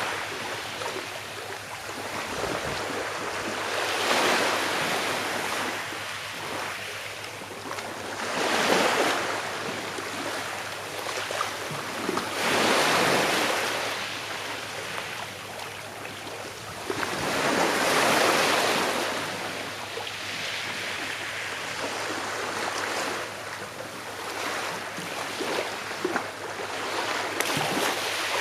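Sea waves washing onto the shore, each swell rising and falling away, about one every four to five seconds.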